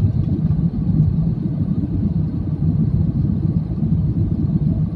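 Steady low rumble of an airliner cabin in flight, engines and airflow running on the approach.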